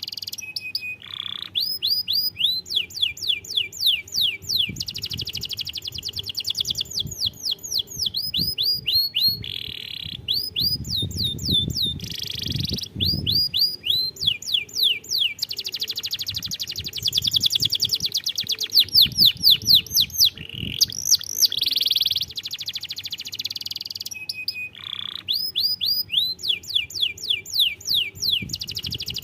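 Canary singing a long song of rapid trills: fast runs of repeated high notes, phrase after phrase, with short breaks between them.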